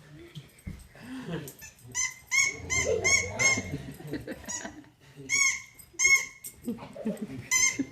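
A dog yapping excitedly in short, high-pitched yips, coming in quick runs of several at a time, three times.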